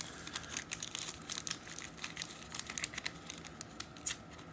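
Trading card pack being opened by hand: the wrapper crinkling and tearing in a run of faint, irregular crackles and ticks.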